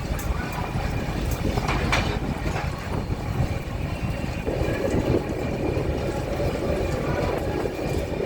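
Steady low rumbling of a moving vehicle, with a few faint clicks and rattles.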